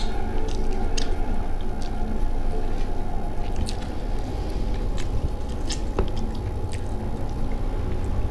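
Close-up chewing of a mouthful of rice and curry, with many short wet mouth clicks and smacks over a steady low background noise.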